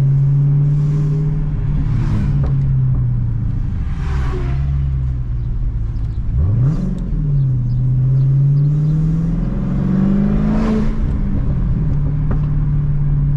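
Dodge Challenger Hellcat's supercharged 6.2-litre Hemi V8 running while driving, its exhaust mid-pipes deleted. The engine note dips, climbs sharply and falls back about halfway through, then rises again before settling.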